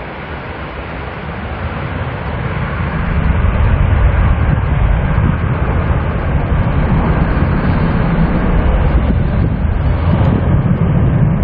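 Jet airliner's engines, a heavy rumble that grows louder over the first few seconds and then holds steady.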